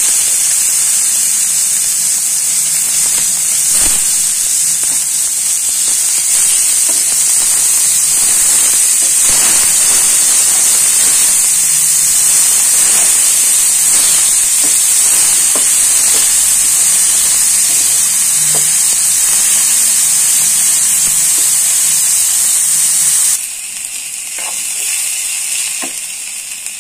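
Chopped onions sizzling loudly in hot oil in a frying pan, the base of a dal tadka, with light scrapes and taps as a spatula turns them. The sizzle drops abruptly to a quieter level near the end.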